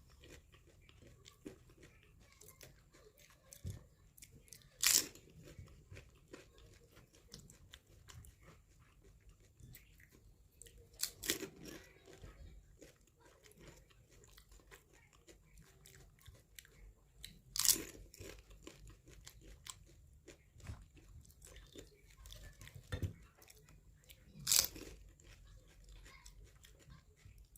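Crisp fried fuchka (pani puri) shells crunching as they are bitten into and chewed. Four loud crunches come about six seconds apart, with quieter chewing between.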